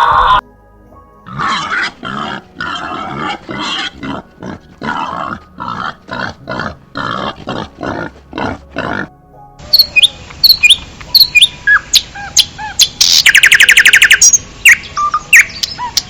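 Animal calls: a run of short, repeated calls, about two a second. From about halfway through, bird chirps and whistles follow, with a buzzing trill near the end.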